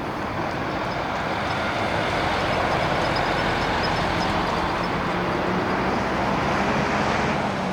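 Jet airliner engine noise: a steady rush that builds a little and begins to ease off near the end.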